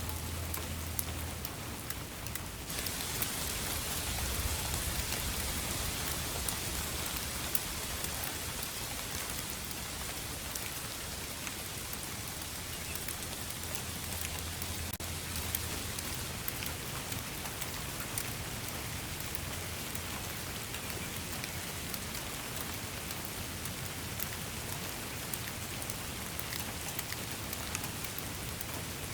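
Steady rain falling: a dense hiss flecked with the ticks of single drops. The hiss turns suddenly brighter and fuller about three seconds in.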